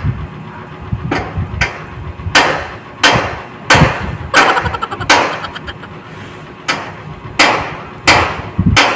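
Hammering: a run of hard hammer strikes with a short ringing tail, the strongest about one every 0.7 seconds, with lighter knocks in between. The speaker takes it for someone doing repairs downstairs.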